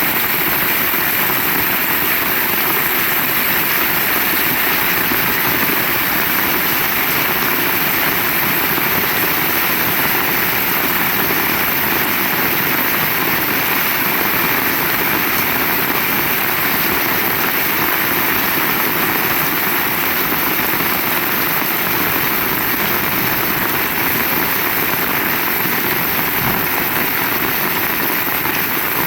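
Heavy rain falling steadily on hard surfaces, a dense, even hiss with no letup.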